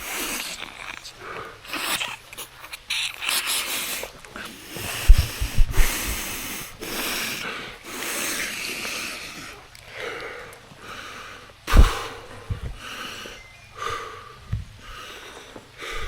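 A person breathing heavily, with wheezing breaths in and out every one to two seconds. A few low thumps cut in, the loudest about five seconds in and another near twelve seconds.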